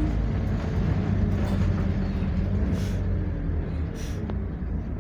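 Scania double-decker bus running with a steady low engine hum. Two short hisses come about three and four seconds in.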